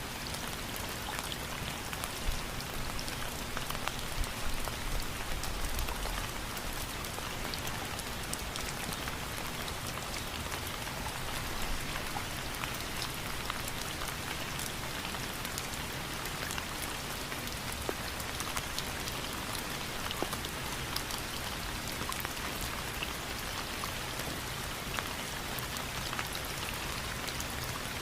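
Steady rain falling: an even wash of noise with a dense patter of individual drops ticking.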